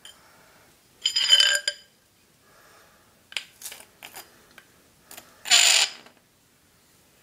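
An iron rod pressed against dry ice, squealing: two loud, ringing screeches about a second in and near the end, with several short squeaks between them. The metal vibrates as the carbon dioxide sublimating at the contact pushes against it.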